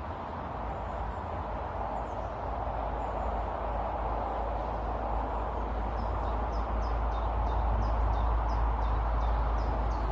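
A songbird calling with a quick series of short, high, downslurred notes, about two to three a second, starting a little past halfway, over a steady rumbling background noise. A few fainter high bird notes come earlier.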